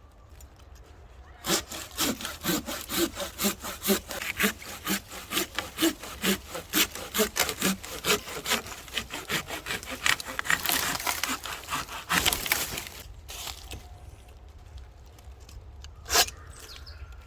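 Saw cutting through a piece of firewood in steady back-and-forth strokes, about two a second, getting quicker near the end of the cut and then stopping. A single sharp knock of wood follows a few seconds later.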